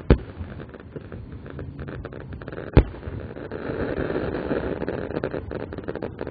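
Aerial fireworks going off, played back slowed down: two sharp bangs, one at the very start and another a little under three seconds in, over steady crackling that swells for a couple of seconds in the second half.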